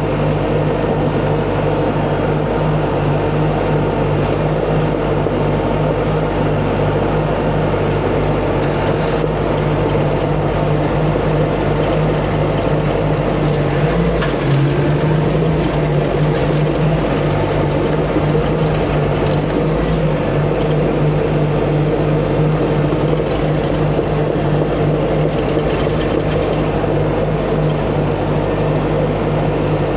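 CAT D5 bulldozer's diesel engine running steadily under load, with a brief change in pitch about halfway through as the push bears on the stuck haul truck.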